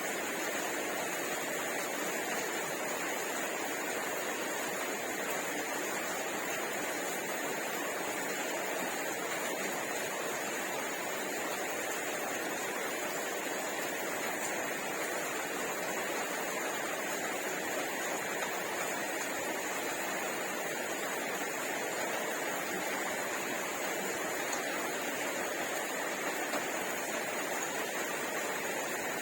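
Steady, even background hiss with a faint high whine, unchanging throughout, with no distinct chewing or clicking standing out.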